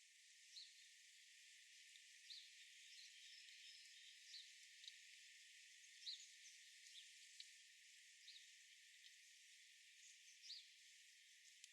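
Faint, short bird chirps, a few seconds apart and irregular, over a steady thin high hiss of outdoor ambience.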